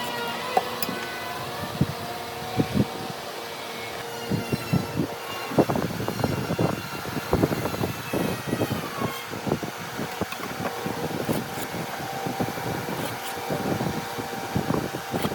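An irregular run of sharp knocks and taps, several a second, starting about four seconds in, over a steady background.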